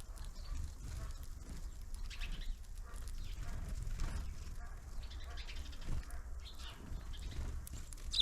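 Small birds at a winter feeder giving scattered short chirps and calls over a low steady rumble.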